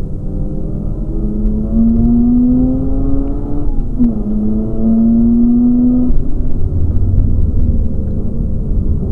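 Mazda RX-8's twin-rotor Wankel rotary engine heard from inside the cabin, climbing in revs under acceleration. A quick upshift comes about four seconds in, then it pulls up again until the revs drop away about six seconds in, leaving a lower rumble.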